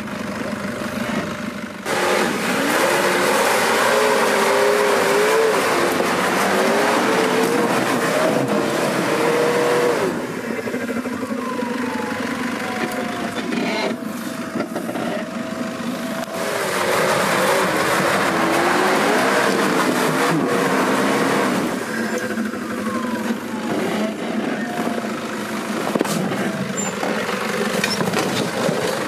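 Off-road 4x4's engine revving hard under load in two long bursts, its pitch wavering, with the revs falling away between the bursts and again near the end, as the driver makes repeated attempts at an obstacle.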